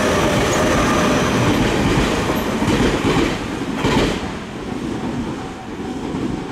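A Tobu Tojo Line stainless-steel electric commuter train running past on the near track, loud, its wheels clacking over rail joints. The sound falls away after about four seconds as the last car goes by.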